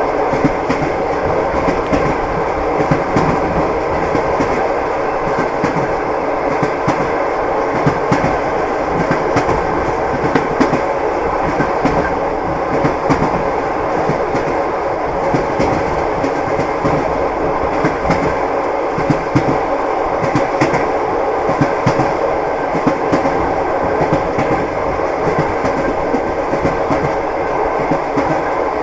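Passenger train running at speed, heard from inside the carriage: a steady rumble with the clatter of the wheels clicking over the rail joints.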